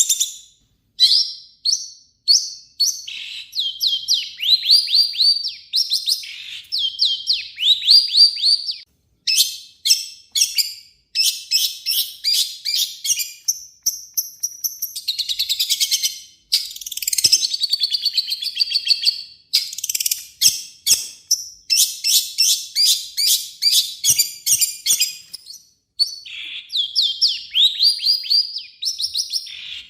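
Long-tailed shrike (cendet) singing: rapid runs of short chattering notes and repeated rising slurred whistles, in loud phrases of a second or few, with brief gaps between them.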